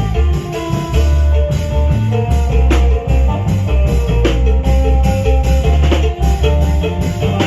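Isan folk dance music: an amplified phin lute plays a lively melody in quick, short notes over long drums, percussion and a deep bass line.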